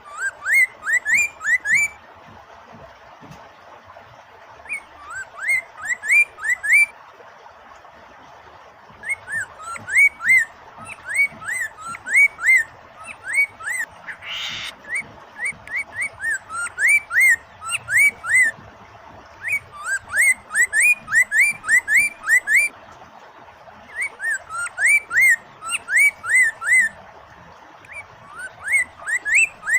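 Poksay mandarin (Chinese hwamei) singing: phrases of quick, repeated rising whistled notes with short pauses between them, over a steady hiss of running water. A brief rustling burst cuts in about halfway through.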